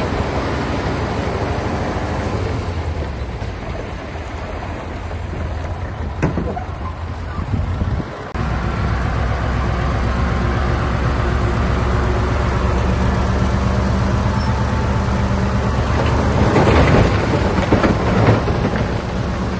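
Heavy diesel construction machinery running steadily at a low engine note. Near the end comes a run of knocks and crunches from rock being moved.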